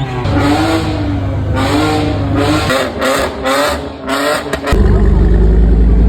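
Car engines revving, their pitch rising and falling, then a much louder deep exhaust rumble starting near the end.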